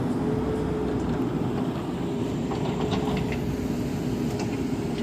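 Diesel engine of a JCB 3DX Super backhoe loader running steadily with a low rumble.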